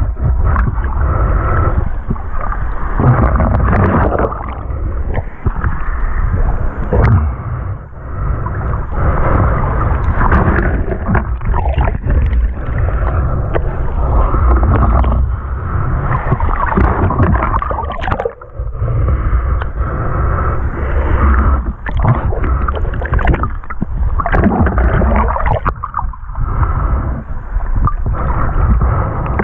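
Muffled rushing and gurgling of seawater over a steady low rumble, rising and falling in level without a break.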